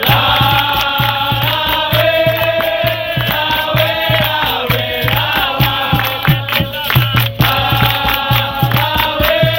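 Capoeira roda music: a group of voices singing a chorus together in long held notes over a steady drum beat.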